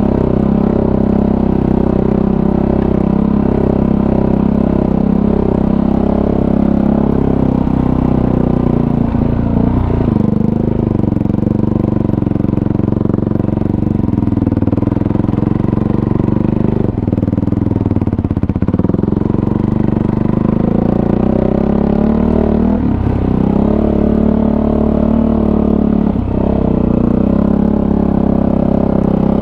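Kawasaki KFX450R ATV's single-cylinder four-stroke engine running while riding, its pitch rising and falling with throttle changes several times.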